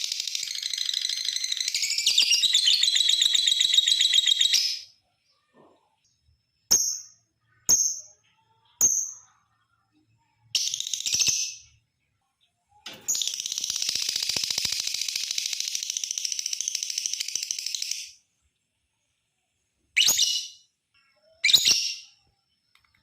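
Lovebird giving its long chattering 'ngekek' song: rapid, high, even trills lasting about five seconds, twice. Between the two long runs come three short sharp calls and a few brief chatters.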